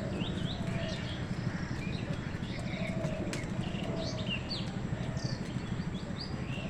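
A flock of small birds chirping: many short, high chirps overlapping, with a few lower short calls about once a second, over a steady low rumble.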